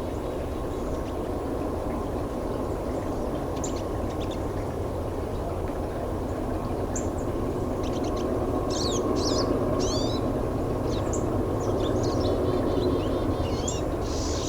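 Pine siskins calling and twittering in short, quick high chirps, scattered at first and busier in the second half. Under them runs a steady low rumble that slowly grows louder.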